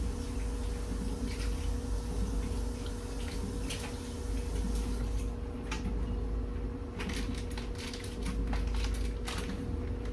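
Kitchen handling sounds: scattered small clicks and clinks of utensils and packaging while cheese is got ready for a casserole, over a steady low hum with a faint constant tone.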